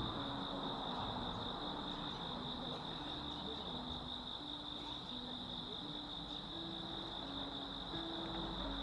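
Insects trilling without a break, one continuous high-pitched tone, over a soft wash of outdoor noise.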